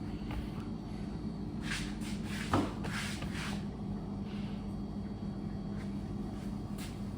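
Steady low mechanical hum, with a few short rustling sounds and one light knock about two and a half seconds in.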